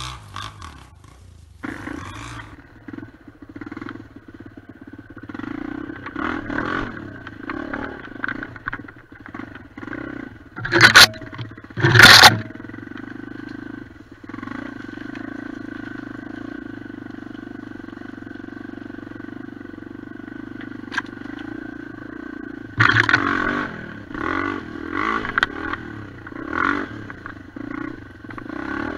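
Honda XR250 enduro motorcycle engine running steadily as the bike rides over rough ground, heard from on the bike, with two loud knocks about a second apart near the middle.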